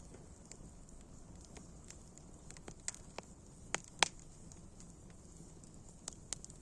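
Campfire crackling: irregular sharp pops and snaps of burning wood over a low steady hiss, the loudest pop about four seconds in.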